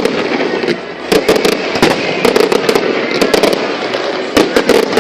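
Aerial fireworks bursting: a rapid run of sharp bangs and crackles, several a second, over a continuous hiss.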